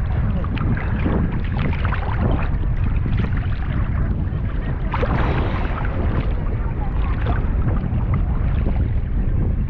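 Sea water splashing and sloshing close to the microphone, with wind buffeting it as a steady low rumble; the splashing swells about halfway through.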